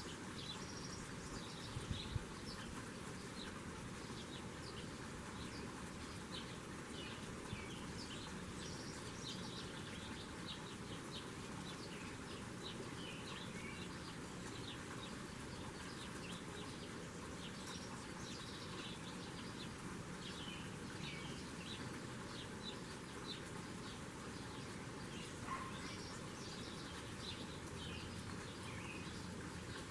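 Small birds chirping and calling over and over at a feeder, short high notes scattered throughout over a steady outdoor hiss, with a couple of sharp knocks about two seconds in.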